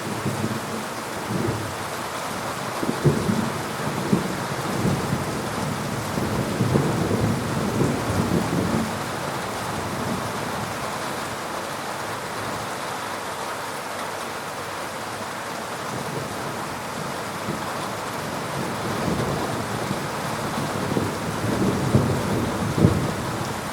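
Heavy rain falling steadily in a thunderstorm. Thunder rumbles and crackles through the first third, dies away, and rolls in again near the end.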